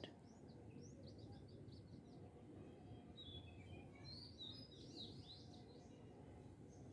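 Faint birdsong in the background: small birds chirping in scattered quick runs of high notes over a low hiss.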